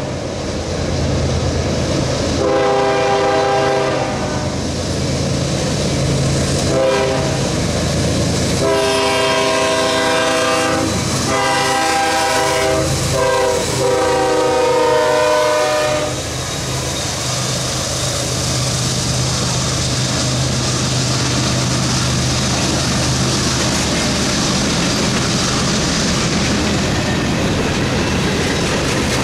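CSX freight train's diesel locomotive air horn sounding the grade-crossing pattern. The end of one blast is followed by a long blast, a short one and a final long blast held about seven seconds as the locomotives come up and pass. After that come the steady hum of the diesel engines and the rolling, clattering wheels of tank cars and covered hoppers passing on the rails.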